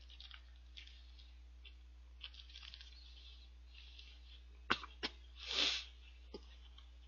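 A man chewing a bite of shrimp burger, with faint soft mouth sounds, then two sharp lip smacks a little before five seconds in and a short, louder breathy puff just after.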